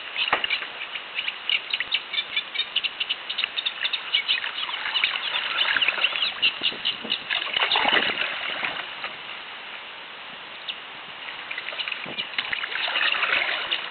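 A small songbird in a reed bed singing a long, rapid, chattering song of close-set clicking and scratchy notes. The song thins out briefly around ten seconds in, then picks up again. The bird is taken for a reed warbler, though its identity is not certain.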